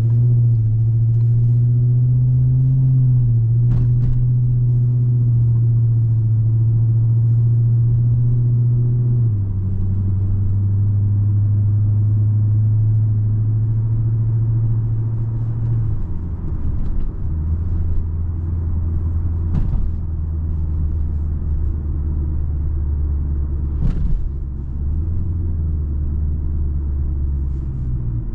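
2010 Hyundai Genesis 4.6-litre V8 engine and exhaust droning while the car is driven, its note stepping down in pitch a few times and rising again near the end. A few sharp knocks break in.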